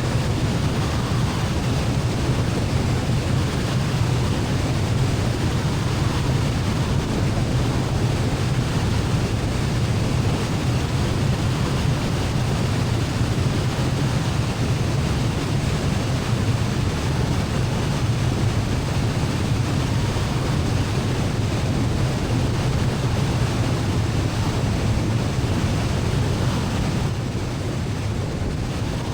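Steady engine and airflow noise inside a light single-engine airplane's cabin on final approach, easing slightly near the end.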